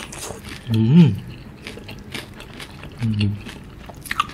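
Close-up chewing of sauce-coated fried chicken, with many small wet mouth clicks and smacks. Two short closed-mouth hums, about a second in and about three seconds in.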